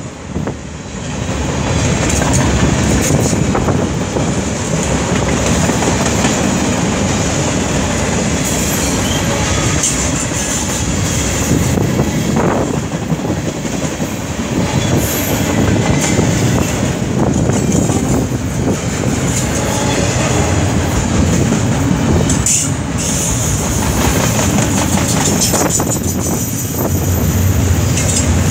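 Canadian Pacific mixed freight train passing close at speed: a steady, loud rumble of steel wheels on rail, with scattered clicks as the cars roll over rail joints and a thin, steady high squeal from the wheels.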